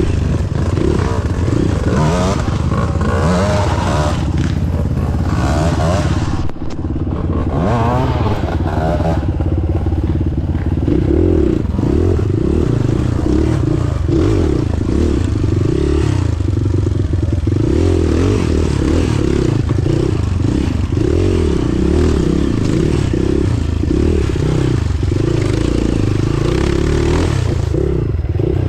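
An off-road vehicle's engine running under load while driving, its pitch rising and falling with the throttle, with clattering and scraping over rough ground.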